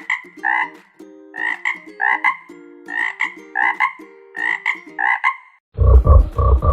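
Frog croaking over and over, the calls coming in quick pairs. About a second before the end, a louder, deeper pulsing sound cuts in.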